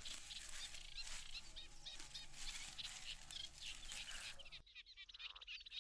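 Faint chirping of small birds: many short calls in quick succession, which thin out briefly about four and a half seconds in.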